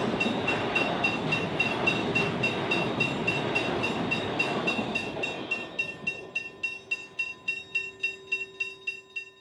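Loaded container wagons of a freight train rolling past on the rails, the noise fading away after about five seconds as the end of the train passes. Throughout, a bell rings steadily at about three strokes a second, and it stands out alone near the end.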